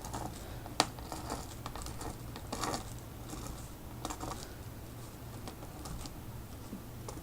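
Irregular light tapping and dabbing on paper as dots are put on through a stencil, with one sharper knock just under a second in. A steady low hum runs underneath.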